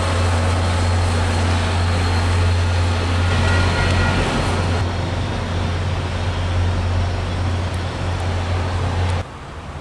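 MBTA diesel commuter train running past with a steady low engine drone over broad rumbling noise. The sound cuts off abruptly about nine seconds in.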